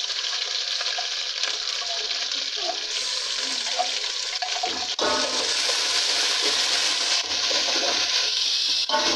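Browned onions with ginger-garlic-green chilli paste sizzling in hot oil in an aluminium pot. The sizzle gets louder about five seconds in, as a steel ladle stirs the paste into the onions.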